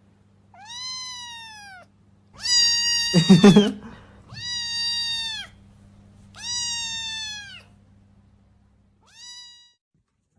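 A cat meowing five times: four long, drawn-out meows of about a second each and a short one near the end, the second meow the loudest with a low rough noise mixed into it. A low steady hum runs under the first four meows.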